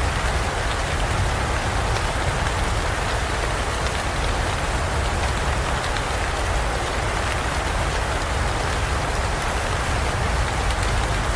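Steady heavy rain falling in a forest, with a low rumble underneath that is strongest at the very start.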